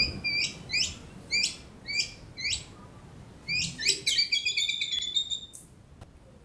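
White-rumped shama singing a string of sharp high chirps, roughly two a second, then a fast buzzy trill that stops about five seconds in. Its song is filled with mimicked lovebird calls.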